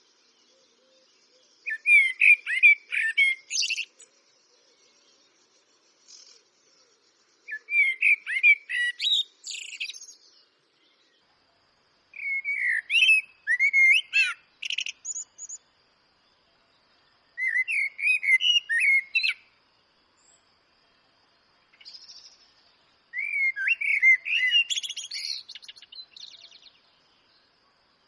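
Eurasian blackbird singing: five separate phrases a few seconds apart, each a run of low, fluting warbled notes ending in a higher, squeaky twitter. A faint, steady high-pitched drone runs underneath.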